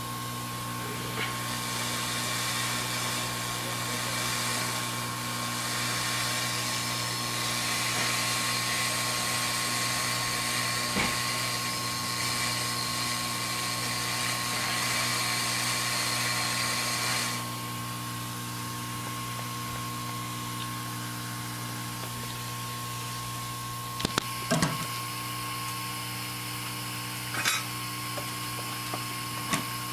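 Hot air rework station blowing on the logic board, a steady hiss that cuts off suddenly about 17 seconds in, over a constant electrical hum. A few small sharp clicks near the end.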